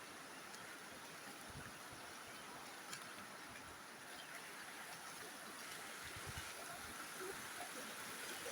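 Faint, steady rush of water from a waterfall, with a few soft knocks and low bumps.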